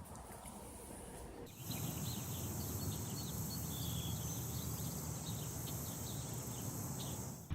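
Outdoor ambience that starts suddenly about a second and a half in: a steady high insect drone with many short bird chirps over a low rumble.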